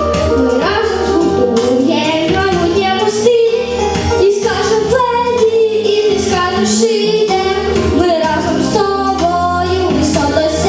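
A song performed with singing over an instrumental backing track with a steady beat.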